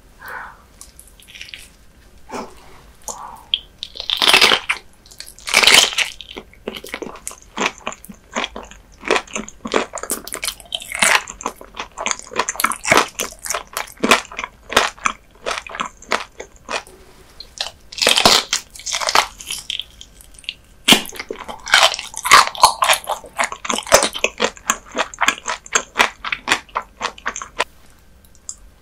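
A person chewing raw dotted gizzard shad sashimi eaten bones and all: quick, crisp crunches with a few louder bites scattered through.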